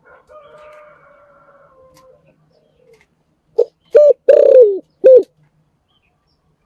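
Spotted dove cooing: a faint, drawn-out coo at first, then a loud phrase about three and a half seconds in of two short coos, a longer falling coo and a short final note.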